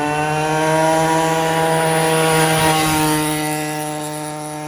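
Small engine of a 50cc kids' quad bike running as it rides past. It grows louder to a peak about halfway through, then fades with its pitch dropping slightly.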